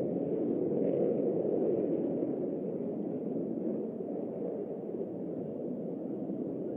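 Jet aircraft engines giving a steady low rumble, easing off slightly toward the end.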